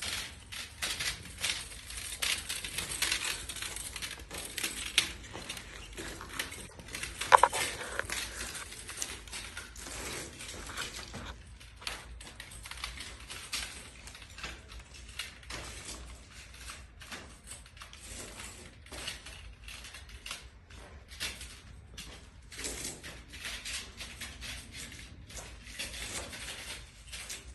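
Copper pipe and its insulation being handled and worked by hand: a dense run of crackling and clicking, with one sharp metallic clink about seven seconds in that rings briefly.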